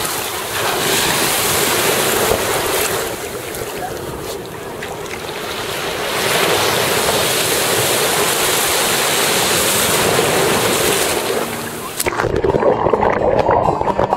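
Ocean surf washing in with wind buffeting the microphone, swelling and easing in waves; about twelve seconds in it cuts off abruptly and music begins.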